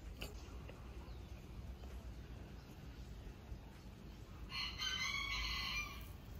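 A single loud bird call lasting about a second and a half, starting about four and a half seconds in, over a faint steady outdoor background.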